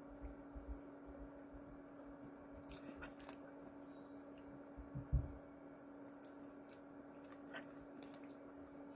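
A person chewing a mouthful of food, faintly, with a few light clicks and a dull thump about five seconds in, over a steady low hum.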